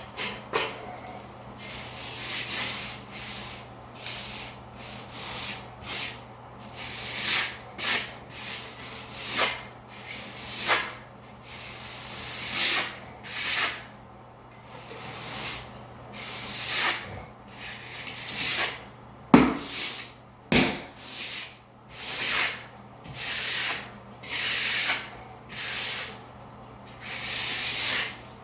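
A hand float scraping over fairly dry shower pan mortar in repeated strokes, about one every second or so, smoothing and sloping the mud bed. Two sharper knocks come about two-thirds of the way through.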